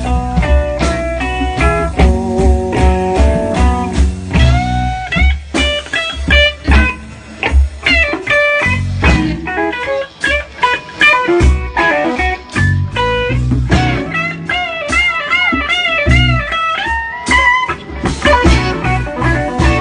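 Live blues-rock band playing an instrumental passage, an electric guitar taking the lead with bent notes over a steady bass and drum beat.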